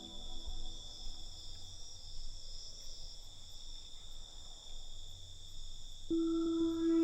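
Crickets chirping steadily in a continuous high-pitched chorus. A sustained ambient music tone, like a synth pad or singing bowl, comes in about six seconds in.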